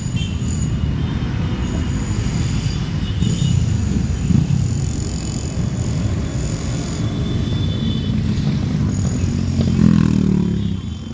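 Motorcycles passing in a steady stream with a continuous low engine rumble, and one engine revving up, rising in pitch, near the end.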